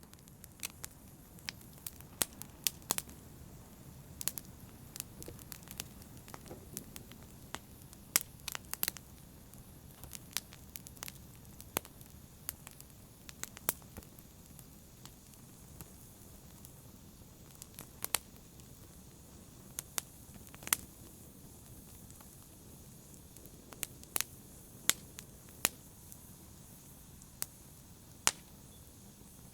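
Campfire burning: irregular sharp crackles and pops of wood over a low, steady rush of flame.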